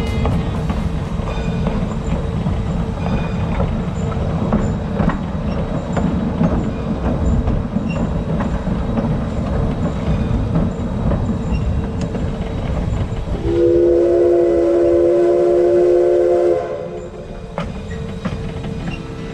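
Narrow-gauge train rolling along the track, wheels rumbling and clicking over the rails with a steady tone running underneath. About two-thirds of the way through, the locomotive whistle sounds one blast of about three seconds.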